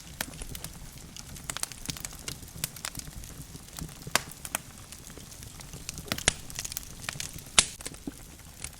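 Logs burning in a fireplace, crackling with irregular sharp pops over a low steady rumble. The loudest pop comes about three-quarters of the way through.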